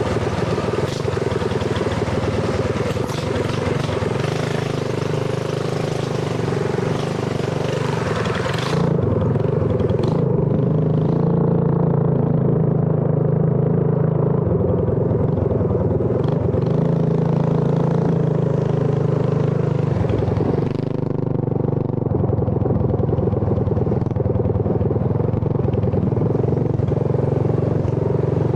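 Mini bike engine running steadily with small shifts in pitch, as on a ride.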